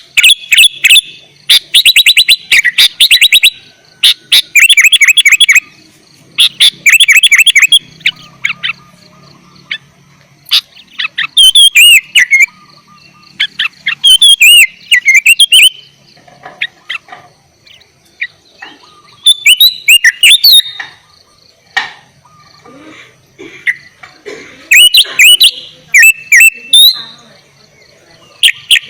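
Sooty-headed bulbul (kutilang) singing loudly in bursts: rapid runs of quick repeated notes in the first few seconds, then shorter, liquid whistled phrases with gliding notes, each separated by pauses of a second or two.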